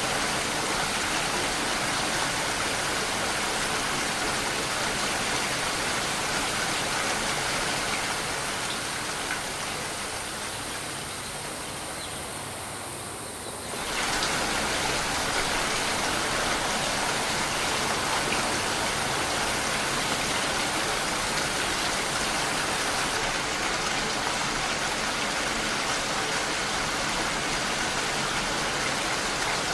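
Steady rain, an even hiss of falling drops. It fades a little quieter from about 8 seconds in, then jumps back to full level abruptly about 14 seconds in.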